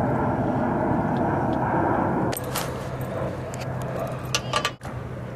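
Steady rumbling outdoor background noise, which drops about two seconds in, followed by a scatter of light clicks and jingles.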